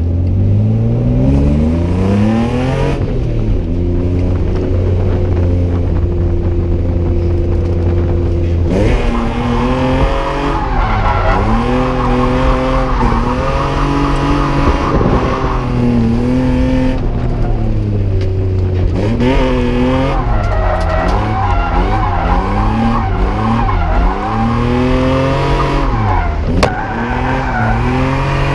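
BMW E36 328is straight-six drift car revving up, holding steady revs for several seconds, then revs swinging up and down repeatedly with tire squeal as it drifts.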